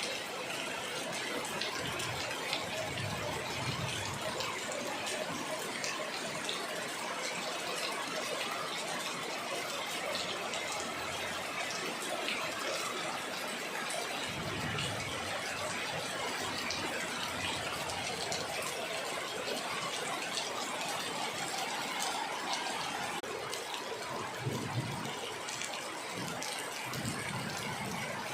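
Heavy rain falling, a steady hiss of dense drops.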